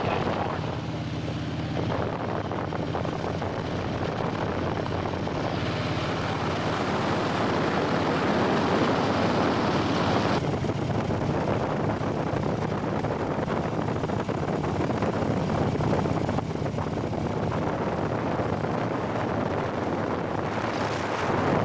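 Motorcycle engine running steadily at road speed, with wind rushing over the microphone; the wind noise swells and eases a few times.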